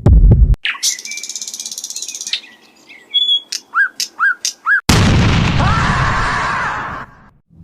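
Bird chirps in a sound-effect soundtrack. A low thump comes at the start, then a fast high trill, then a run of about six short chirps. About five seconds in, a loud noisy boom follows, lasting about two seconds before it cuts off.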